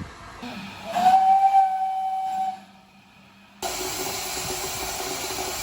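Steam locomotive whistle blowing one steady blast about a second in, lasting about a second and a half before it fades. After a sudden cut, a steady hiss of escaping steam with a low whistle tone in it.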